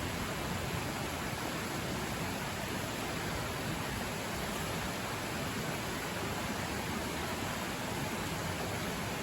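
River running loudly, a steady, even rushing without change.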